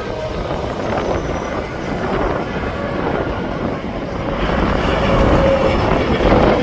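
Interstate highway traffic going by in a steady rush of tyre and engine noise. It swells as a vehicle passes close about five seconds in.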